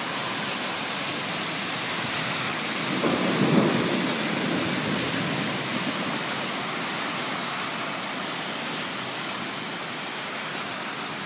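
Steady heavy rain during a thunderstorm, with a low roll of thunder swelling about three seconds in and fading over the next two seconds.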